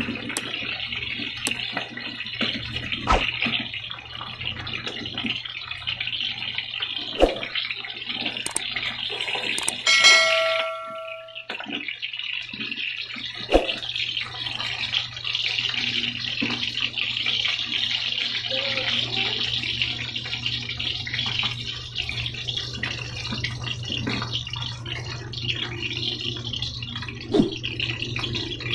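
Eggs frying in oil in a pan inside bitter melon rings: a steady sizzle, with a spatula scraping and tapping the pan now and then over a low steady hum. About ten seconds in, a short bell-like chime rings for about a second.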